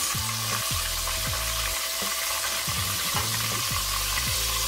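Breaded whiting fillets deep-frying in hot vegetable oil in a Dutch oven: a steady sizzling hiss, with a wire spider skimmer moving the fish about at first.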